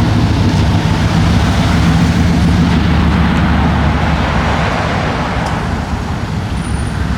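Car engine running steadily, a low even hum under road noise, easing off slightly over the last couple of seconds.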